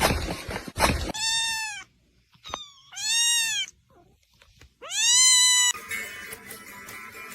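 A cat meowing three times, each meow rising and then falling in pitch, after a second of rustling noise. Music with guitar comes in near the end.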